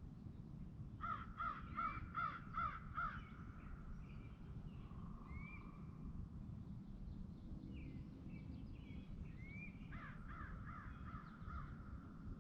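A bird calling in a quick run of about six repeated calls, about two a second, and again near the end with about five more. Fainter short whistles from other birds sound over a steady low outdoor rumble.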